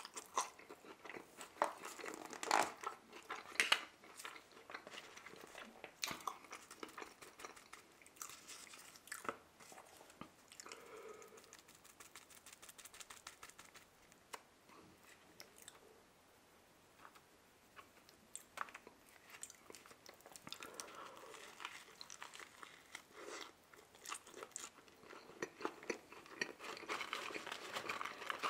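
Close-miked chewing and crunching of McDonald's fries and a burger, a run of irregular bites and chews. It thins out for a few seconds about halfway through, then picks up again near the end.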